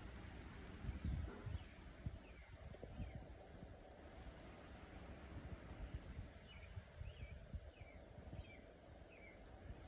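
A bird calling: a string of short, falling chirps, faint and irregularly spaced. Low rumbles of wind buffeting the microphone run underneath, the strongest gust about a second in.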